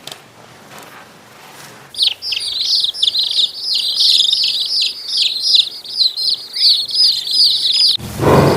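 A small songbird chirping rapidly: a fast run of short, high notes that starts about two seconds in and stops abruptly near the end, when a loud deep roar begins.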